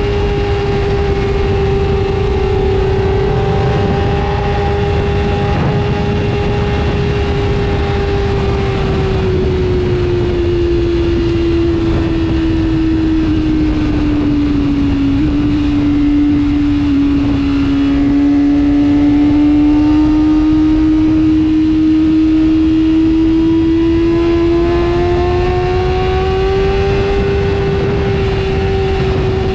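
Superbike engine running at a steady high pitch while riding. The note sags slowly about halfway through, then climbs back, over a loud low rushing noise.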